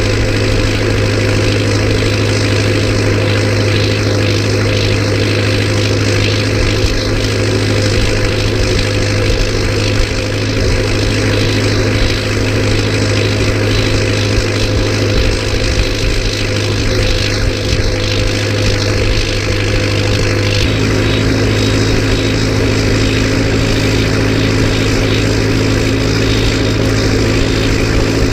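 Turbocharged, straight-piped Massey Ferguson 590T four-cylinder diesel tractor engine running steadily under working load. Its note shifts slightly about twenty seconds in.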